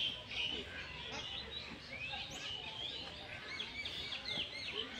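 Several birds chirping and calling in the trees: many short, quick chirps that overlap continuously, with faint distant voices underneath.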